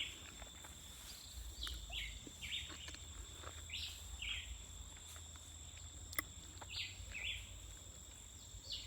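Birds chirping in a string of short high calls, over a steady high-pitched insect drone, with a few sharp clicks.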